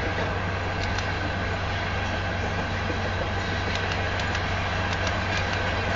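Freight train of loaded grain hopper cars rolling past at speed: steady rolling noise of steel wheels on rail, with a few scattered clicks.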